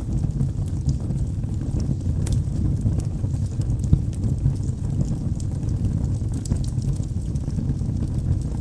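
Wood fire burning in a fireplace: a steady low rumble of flames with scattered sharp crackles and pops, one a little louder about four seconds in.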